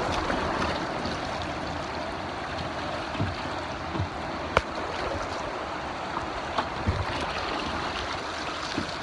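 River rapids rushing in a steady wash of whitewater, with a few scattered low thumps and one sharp knock about halfway through.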